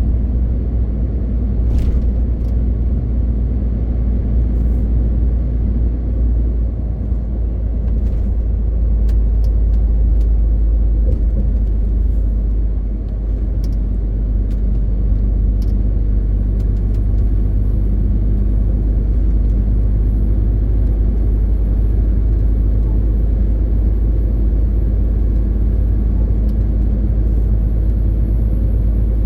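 MAN TGX 18.520 truck's straight-six diesel droning steadily under way, with road rumble and a few faint clicks; the drone dips briefly about halfway through.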